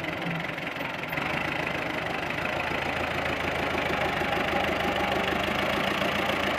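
Massey Ferguson tractor's diesel engine running steadily, getting a little louder about a second in.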